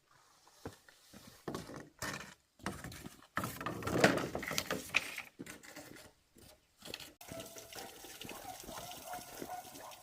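Water splashing and pouring, with irregular knocks and splashes in the first half and a steadier run of water from about seven seconds in.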